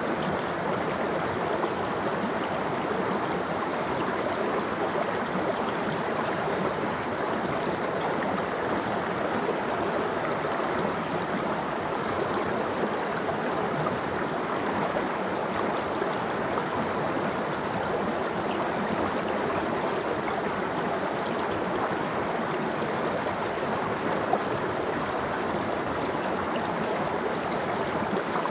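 Valley stream water flowing steadily, an even rushing and gurgling that does not change.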